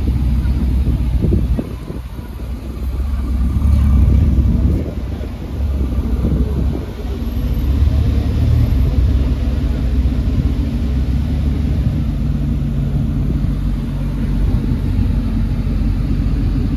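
Car engines running in street traffic, a low steady sound that swells and eases a few times in the first half, then holds steady.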